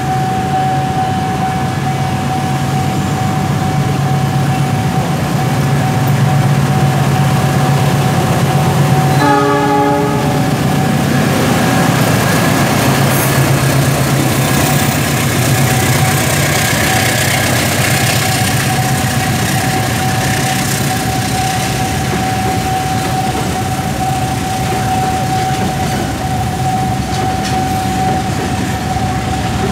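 CC 206 diesel-electric locomotive passing over a level crossing hauling container flatcars: its diesel engine rumbles, its horn sounds once briefly about a third of the way in, and the wagons' wheels roll over the crossing. A steady tone from the crossing's warning alarm sounds under it all.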